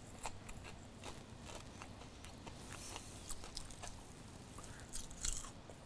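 Faint crunching of a person chewing a piece of crisp, deep-fried battered onion: a run of small, irregular crisp clicks.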